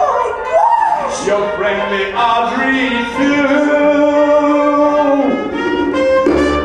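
A voice singing long held notes over musical accompaniment.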